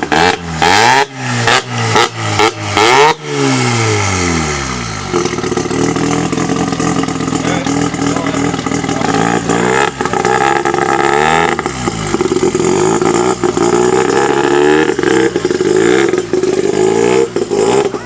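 Loud car engine revved in about five quick blips that rise and fall sharply, then running on with its speed rising and falling more gently.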